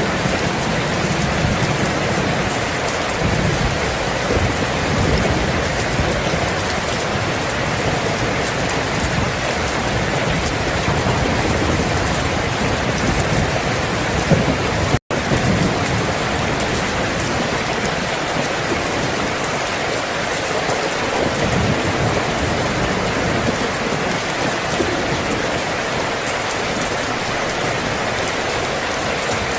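Steady heavy rainfall, a dense even hiss with a low rumble underneath. The sound cuts out for an instant about halfway through.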